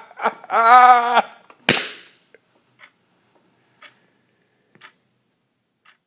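A voice holds one long, level note. Then comes a single sharp bang with a short fading tail, followed by a few faint ticks about once a second.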